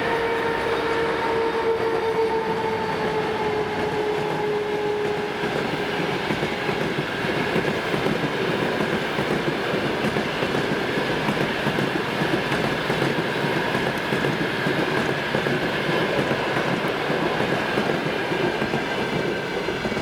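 Passenger train rolling past behind an EP1 electric locomotive: a steady rumble and clatter of the coaches' wheels on the rails. Over the first five seconds a steady high tone from the locomotive slowly drops in pitch and fades out.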